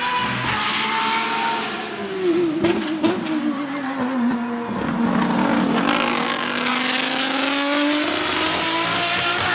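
Nissan 370Z's 3.7-litre V6 engine running as the car drives: the revs drop about two seconds in, then climb steadily again as it accelerates.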